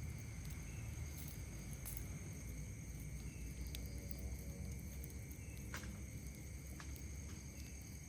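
Steady chorus of night insects, several high unbroken trills at once, over a low rumble, with a few sharp crackles and pops from a wood campfire, the clearest about two seconds and about six seconds in.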